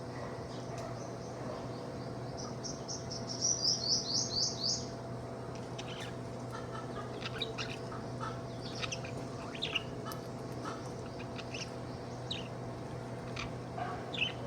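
Budgerigar chirping: a quick run of about ten high chirps a few seconds in, then scattered short chirps.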